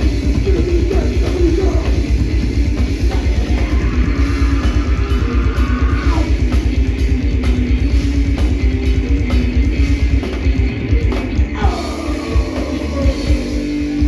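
Live crossover metal band playing: distorted electric guitars, bass and fast drums, with shouted vocals. The drumming becomes sparser about ten seconds in.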